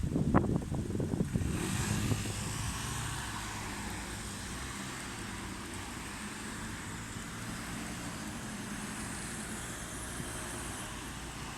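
Strong wind buffeting the microphone in uneven low gusts for the first second or so, then settling into a steady outdoor hiss with a low rumble underneath.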